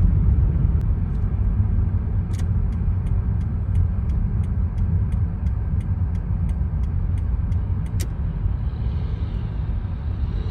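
Car driving on a snowy road, a steady low rumble of engine and tyres. From about two seconds in to about eight seconds in a regular light ticking, about three ticks a second, runs over it.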